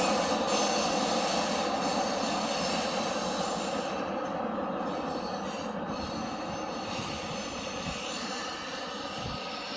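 Freight train cars rolling past on the rails with a steady clatter and a faint wheel squeal, fading as the train moves away.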